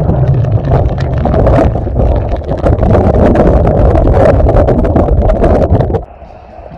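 Strong wind blasting the microphone in a rainstorm: a loud, constant low rumble with many sharp crackling hits, cutting off suddenly about six seconds in.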